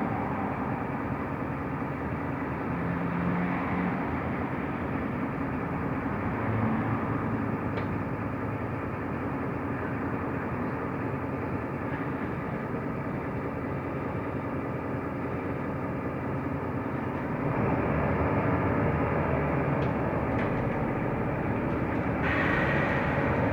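Cabin noise of a Mercedes-Benz Türk O345 Conecto LF low-floor city bus under way: steady engine and road noise that grows louder about three-quarters of the way through, with a higher hiss joining near the end.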